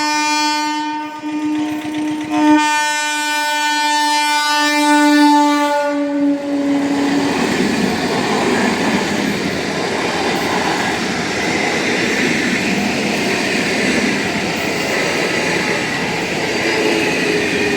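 Train horn sounding two long blasts with a short break between them, the second ending about seven seconds in, followed by the steady noise of a train running past over the rails.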